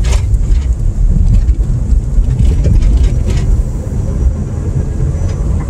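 Low, steady rumble of a car driving, with road and engine noise heard from inside the cabin.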